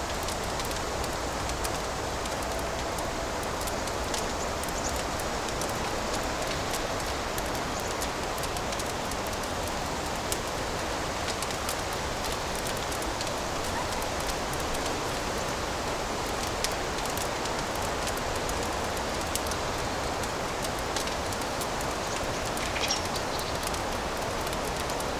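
Fireplace wood fire crackling: a steady hiss with many small crackles and an occasional louder pop.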